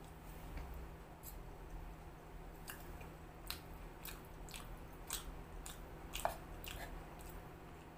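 Close-up chewing of egg chow mein and chicken Manchurian, with irregular sharp wet clicks of the mouth and fork, the loudest about six seconds in. A faint steady hum runs underneath.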